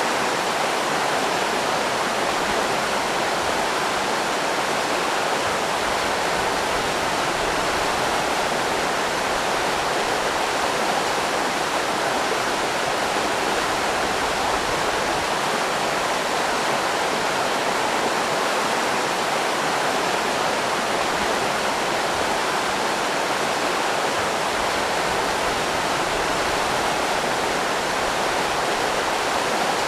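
River rapids rushing: a steady, unbroken wash of running water.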